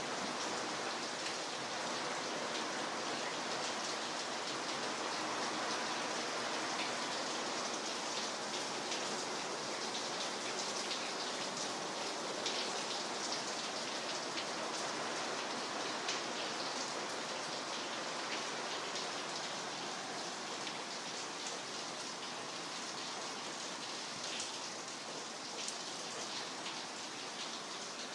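Very heavy rain falling steadily, a dense hiss of drops striking surfaces.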